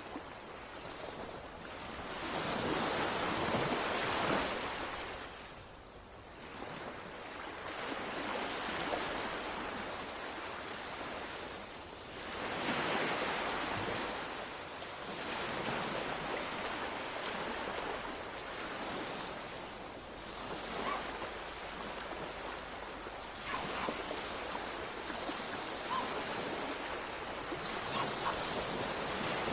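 Sea waves breaking and washing up on the shore, the surf swelling and fading over a few seconds at a time.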